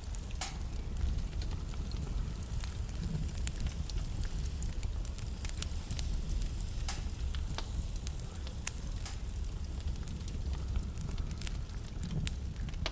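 Wood fire burning in a fireplace: a steady low rumble with irregular sharp crackles and pops from the burning logs, a few louder pops standing out.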